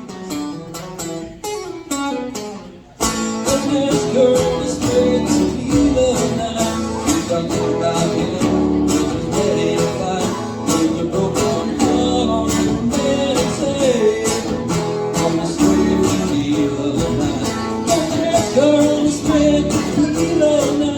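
Live country music: a guitar alone at first, playing a falling run, then about three seconds in a full accompaniment with a steady beat comes in suddenly and carries on loud.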